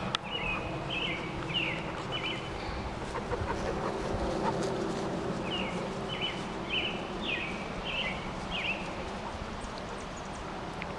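A bird calling: a series of short, high, falling chirps at about two a second. There is one run at the start and another after a pause of a few seconds.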